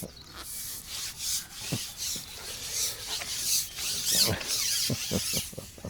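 A carbon fishing pole being shipped back after a snag is freed: repeated rasping rubs as the sections slide, with a few light knocks in the second half.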